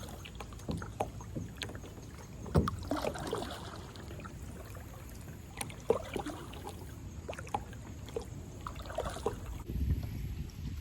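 Movement in a plastic kayak on the water: scattered knocks and splashes against the hull, with two sharper knocks, one about two and a half seconds in and one about six seconds in, over a low water and wind rumble.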